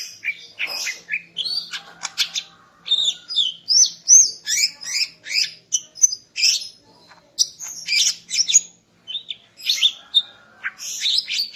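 Female green leafbird (cucak ijo) calling: a rapid run of short chirps, squawks and whistled notes, some sliding up or down in pitch, with a couple of brief pauses.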